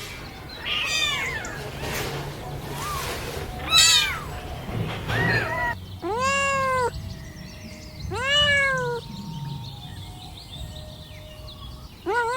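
Kittens meowing over and over, short arched high-pitched mews that rise and fall, coming every second or two and sometimes overlapping.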